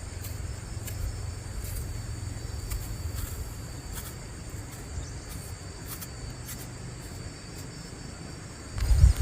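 Insects chirring steadily in a high, even tone over a low rumble, with faint scattered ticks; a louder low rumble comes in near the end.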